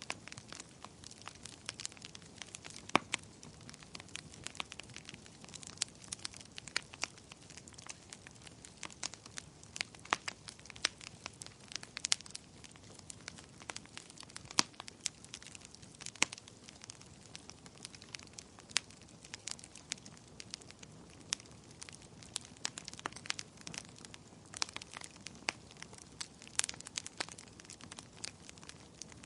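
Fire in a fireplace crackling steadily, with irregular sharp pops and snaps of varying strength over a soft hiss.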